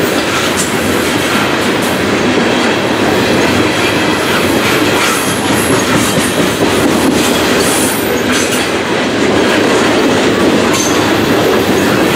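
Loaded coal hopper cars of a CSX freight train rolling past at close range: a loud, steady clatter of steel wheels on the rails.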